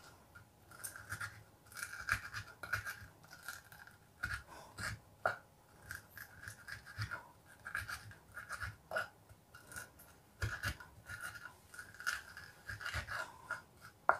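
A person chewing fried chicken close to a clip-on microphone: quiet, irregular mouth sounds and small ticks several times a second, with fingers picking at the chicken.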